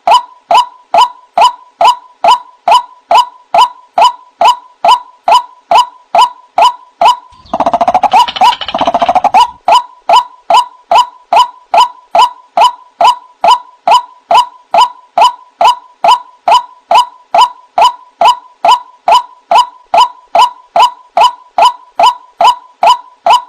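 White-breasted waterhen (ruak-ruak) calling: a steady run of short, hooked "wak" notes, about two and a half a second. About seven and a half seconds in, a couple of seconds of harsher, rapid, noisier calling breaks into the series before the even notes resume.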